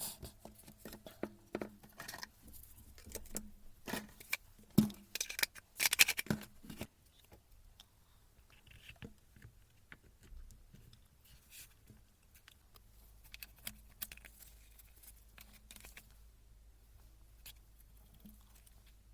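Handling noises: scattered clicks, taps and scrapes of small hard objects being moved about, busy and loud for the first seven seconds, then only occasional faint ticks.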